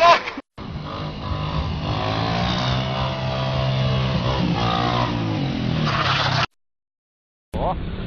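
Motorcycle engine running, its pitch rising and falling a little as it is revved, cut off abruptly near the end.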